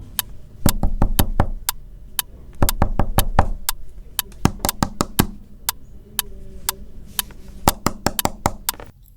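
Fingertips tapping on a hard surface: sharp, irregular taps, several a second and bunched in clusters, resembling raindrops hitting glass.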